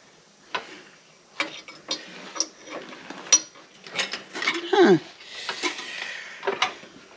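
Metal tools and parts being handled on a workbench: irregular clinks, knocks and taps, with a short scraping squeak near the middle.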